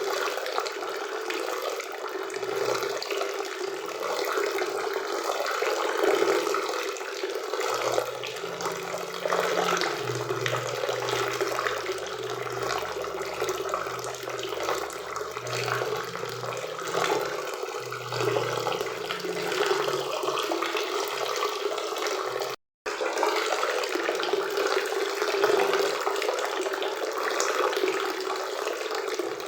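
River water and a waterfall rushing steadily. The sound drops out completely for a split second about three-quarters of the way through.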